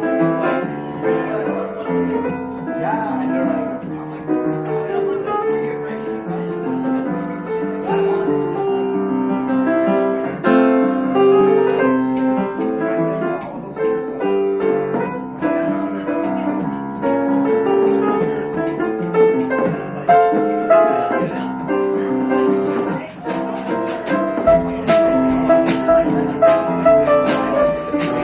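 Live jazz band led by piano or keyboard, playing a standard, with audience chatter in the background. Lower bass notes join about three-quarters of the way in.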